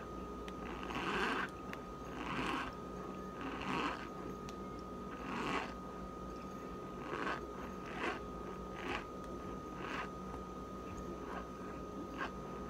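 A mouthful of dry cornstarch being chewed: about ten short squeaky crunches, coming closer together in the second half.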